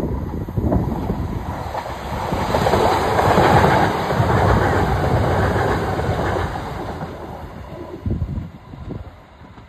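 Class 377 Electrostar electric multiple unit passing close by, its wheels running on the rails. The rumble builds to a peak about three to four seconds in, then fades as the train draws away.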